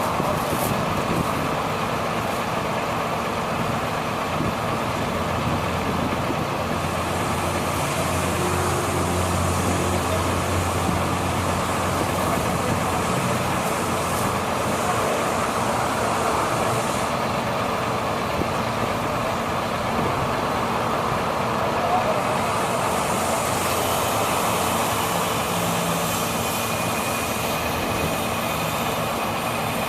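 A 2002 International mechanics truck's engine running steadily. A low hum swells for several seconds in the middle.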